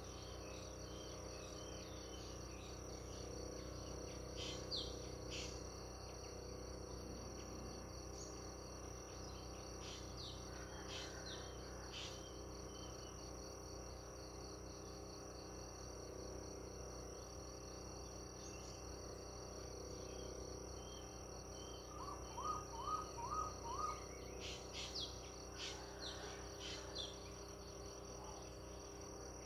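Steady high drone of an insect chorus, with scattered short bird chirps over it. A little past two-thirds through, a bird gives a quick run of five notes, with more chirps just after.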